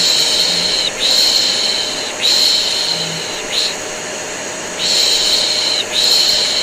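Repeated 'shh' shushing, about five shushes of uneven length, some long and one short, laid over the steady running of a vacuum cleaner. It is a baby-soothing white-noise mix.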